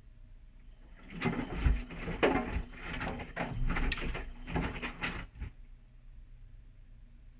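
Whirlpool washing machine in its main wash: the drum turns for about four seconds, wet laundry tumbling with irregular knocks and thumps, then stops again.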